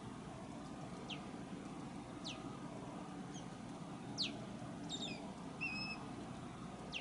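A bird calling with short, high chirps that slide quickly downward, a second or two apart, with a few brief steady whistled notes in between. Under it runs a steady low background rumble.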